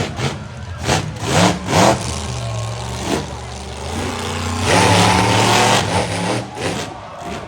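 Monster truck engine revving hard in short bursts, then a longer, louder full-throttle burst about five seconds in that fades toward the end.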